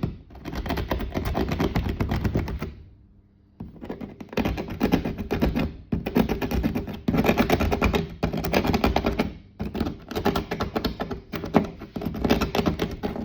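Rapid tapping and scraping of a tool on hard, glue-set ballast around model railway track, worked in quick bursts with short pauses: the PVA-bonded ballast is still rock-hard and is being chipped loose.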